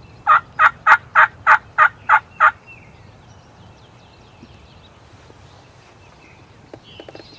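A run of eight evenly spaced turkey yelps, about three and a half a second, sounded loud and close on a hunter's turkey call to draw a gobbler in.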